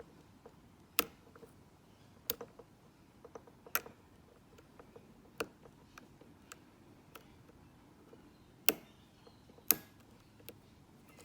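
Irregular sharp clicks and ticks of a lock pick working the pin stack of a Mako padlock under tension, with a handful of louder clicks spread among them as pins set.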